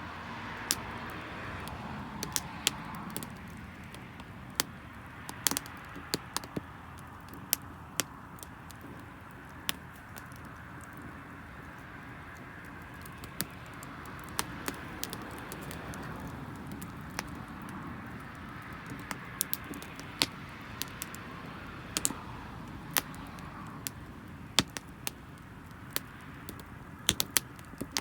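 Wood fire burning damp firewood, crackling with sharp, irregular pops and snaps over a steady low rushing noise.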